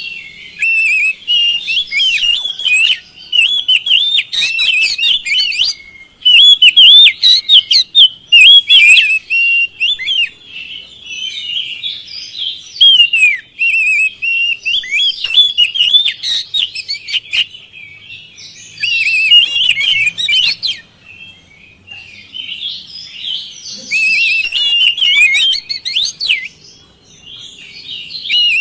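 Oriental magpie-robin (kacer) singing a loud, fast, varied song of chattering and whistled phrases. It comes in bursts a few seconds long, broken by short pauses.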